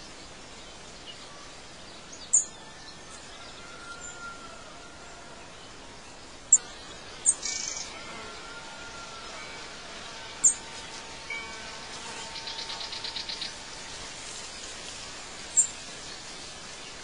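Birds calling over a steady soft background hiss: five short, sharp high chirps spaced a few seconds apart, and a fast trill of about nine notes a second a little past the middle.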